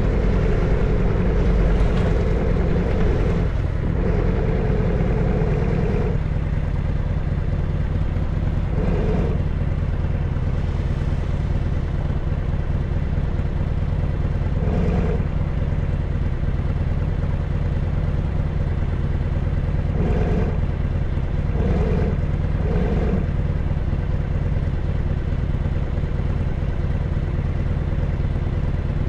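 Harley-Davidson FXSTS's 1340 cc Evolution V-twin engine running. It is louder and busier for about the first six seconds, then settles into a steady low-rev rumble, with a few short swells in sound along the way.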